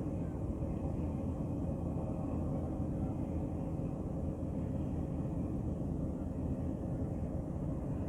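Ship's engine running steadily: a low, even rumble.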